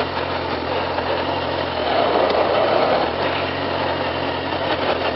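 Small motorcycle engine running at low speed, its low note easing off briefly about two seconds in, with wind rushing on a microphone inside the rider's helmet.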